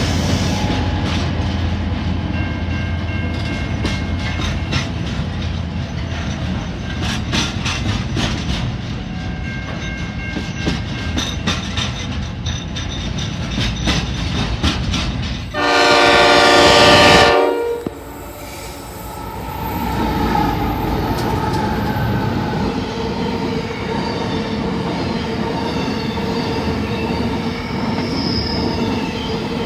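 Freight train passing: a diesel locomotive followed by container wagons, their wheels clacking steadily over the rail joints. About halfway through comes a loud train horn blast lasting about two seconds. Then another container freight train rolls past with a steady rumble and wheel noise.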